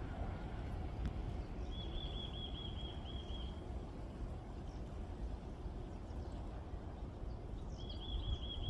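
Wind rumbling on the microphone, with a bird giving a fast run of repeated high notes twice, about two seconds in and again near the end.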